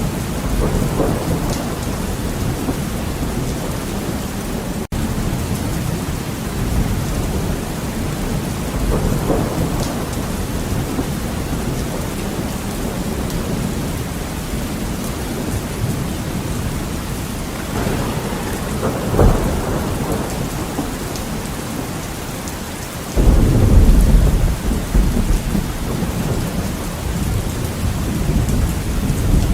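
Heavy rain beating on a window glass, with thunder rumbling throughout. A sharp thunderclap comes about two-thirds of the way in, and a few seconds later a loud, deep peal of thunder breaks in suddenly and rolls on. The sound cuts out for an instant about five seconds in.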